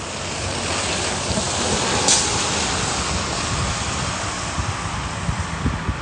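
A vehicle going by, a steady rush that swells to its loudest about two seconds in and then slowly fades, with wind buffeting the microphone.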